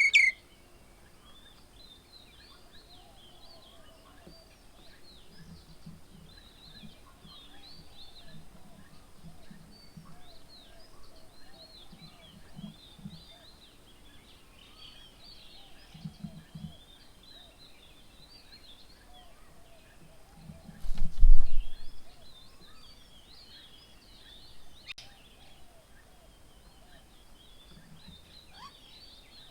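Outdoor birdsong: many small birds chirping and twittering around the bird table, opening with one loud call. Short groups of low pulses come and go through the first half, and a loud low thump sounds a little past the middle.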